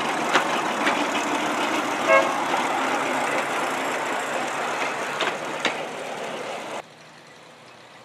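Forest railway 1.5-ton motor car running on the track, a steady noisy rumble with a few sharp clicks. A short horn toot sounds about two seconds in. The sound drops off abruptly near the end.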